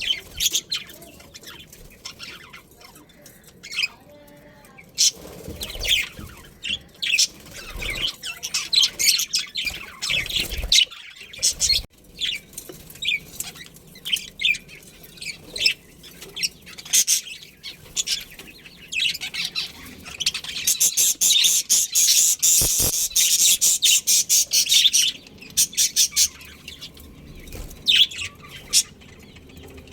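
Budgerigars chirping and chattering in a colony: scattered short high chirps, with a dense, rapid run of chirping about two-thirds of the way in.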